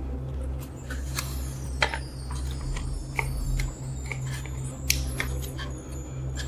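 Scattered light clicks and metallic taps, some with a brief high ring, over a steady low hum: small tools and metal parts being handled at a workbench.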